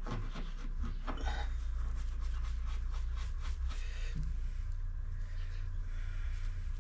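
Scratchy rubbing and scraping from hand work cleaning a brake wheel cylinder, over a steady low hum.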